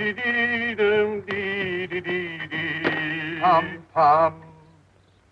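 Male voice singing a slow wordless tune in held, wavering notes, breaking into a loud high warble near the end before trailing off.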